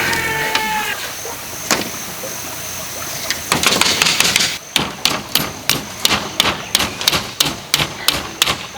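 A tool striking bamboo in a fast, even series of sharp knocks, about three a second, that begins about halfway through. It follows a single knock and a short rustling scrape.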